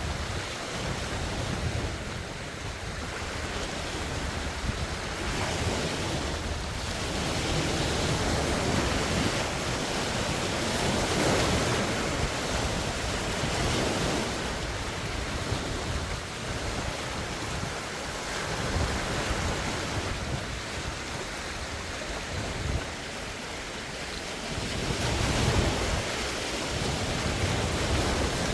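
Large wind-driven lake waves breaking and washing ashore in a continuous rush that swells and eases every few seconds, with wind buffeting the phone's microphone.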